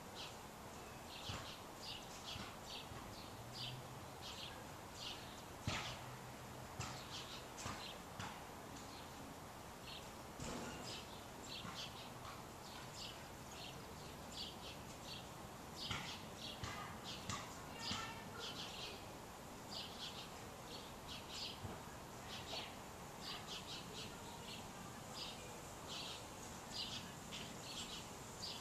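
Birds chirping: many short, high chirps, several a second, coming one after another over a faint steady background hiss.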